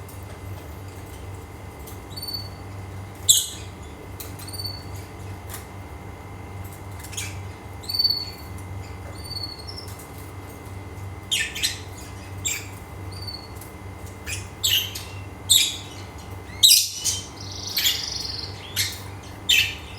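Pet parrot giving short high chirps and squawks, sparse at first and coming more often in the second half, with one longer call near the end, over a steady low background hum.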